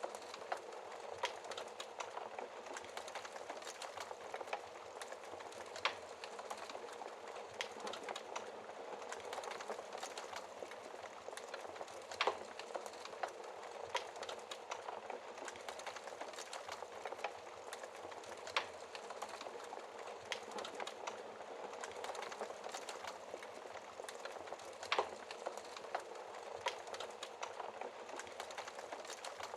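Wood fire burning in a fireplace: a steady soft hiss dotted with many small crackles, and a few louder, sharper pops spread several seconds apart.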